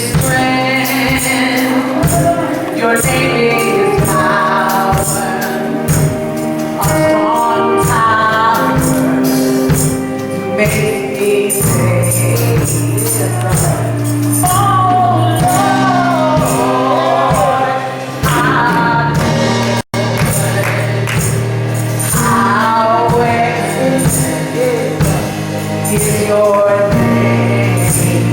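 Gospel choir singing with band accompaniment: sung melody over a steady bass line and a regular percussion beat. The sound cuts out for an instant about twenty seconds in.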